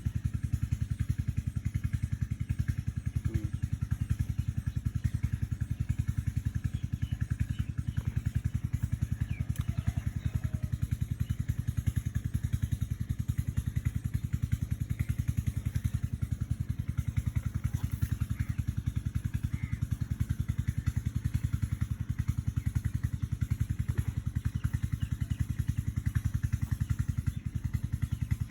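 An engine running steadily at a constant speed, with a rapid, even low throbbing that does not change.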